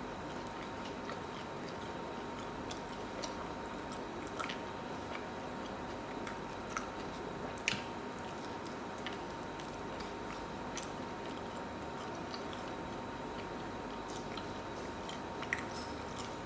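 A person chewing food close to the microphone, with scattered soft mouth clicks and smacks, the sharpest about halfway through. A faint steady tone hums underneath.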